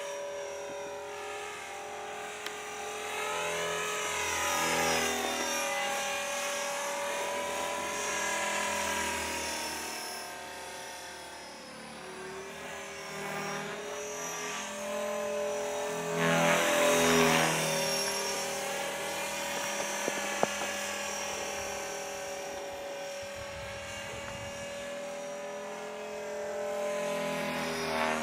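E-flite Blade 400 electric RC helicopter in flight: a steady whine from its motor and gears over the buzz of the spinning rotor blades. The sound swells and wavers as the helicopter moves about, and is loudest about 16 to 18 seconds in as it comes close.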